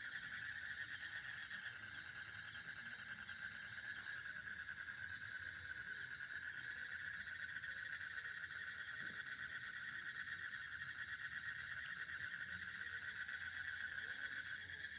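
A chorus of many small frogs calling together, a steady, fast-pulsing high trill that does not break off.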